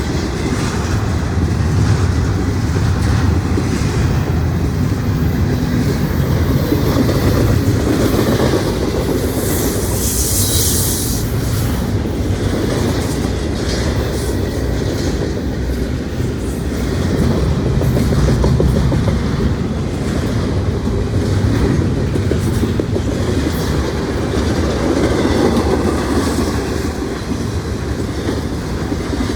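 Norfolk Southern intermodal freight train rolling past, a steady heavy rumble with the clickety-clack of wheels over the rails. About ten seconds in there is a brief burst of high-pitched hiss.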